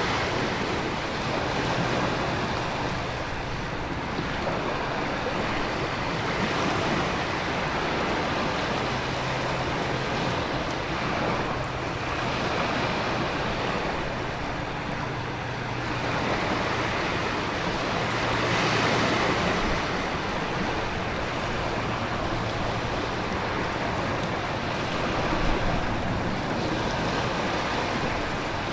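Storm ambience of heavy rain, wind and ocean surf: a steady rushing that swells and eases every few seconds, over a low steady hum.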